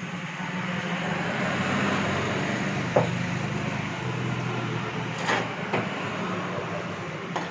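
A steady machine drone with a low hum, broken by a few sharp clicks or knocks, the loudest about three seconds in.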